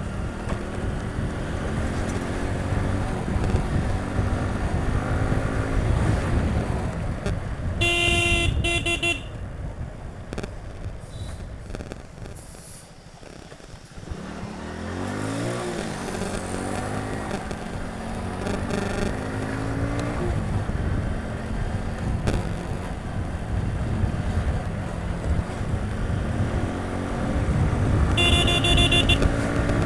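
Hero Passion Pro motorcycle engine running on the road, its pitch rising and falling with the throttle; it drops away about twelve seconds in, then climbs again as the bike accelerates. A horn blows briefly twice, about eight seconds in and near the end.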